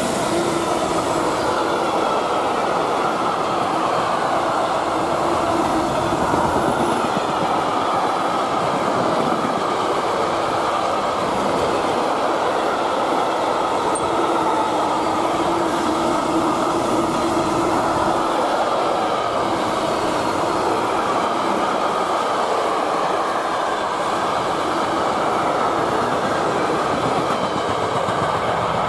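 Container freight train passing close at speed: the steady rolling noise of its wagons' wheels on the rails.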